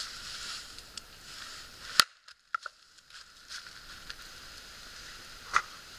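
Two sharp wooden strikes about three and a half seconds apart, the first the louder, with a couple of light knocks just after it: an axe splitting firewood.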